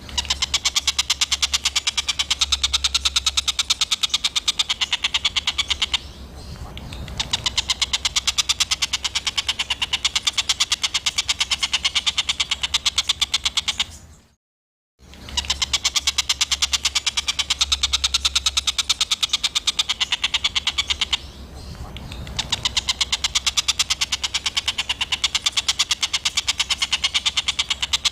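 Songbird masteran recording: a harsh, rapid rattling series of bird call notes. A short break comes about halfway, and then the same stretch of calls repeats as a loop.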